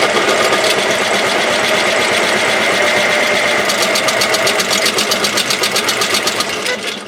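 Battery-powered toy washing machine running its spin cycle: a loud, steady whirring and rattling of the spinning drum, with a fast, regular clicking joining in about halfway through.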